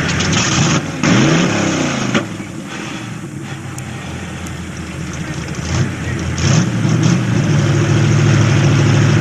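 A competing pickup truck's engine revving sharply up and back down about a second in, then running loud at steady high revs from about six and a half seconds in.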